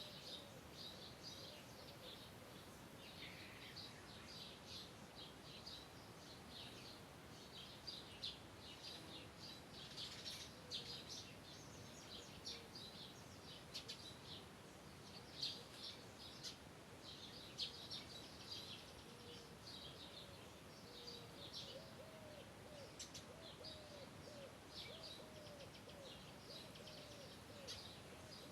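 Faint birdsong: many short, high chirps and calls from several birds, with a lower repeated call joining in during the second half.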